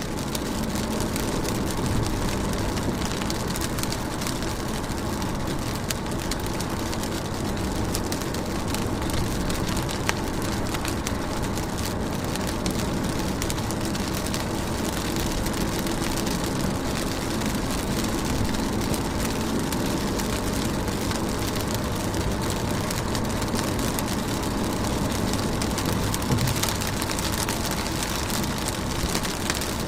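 Steady rain falling, with dense drop hits on a surface and a faint low hum underneath.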